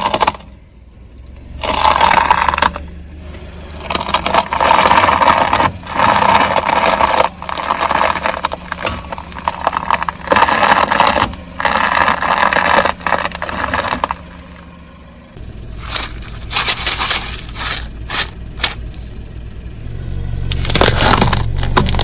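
Car tyre slowly rolling over and crushing brittle objects, a series of loud crunching and crackling spells. After about fifteen seconds the crunching thins to scattered cracks over the low hum of the car's engine, which grows louder near the end.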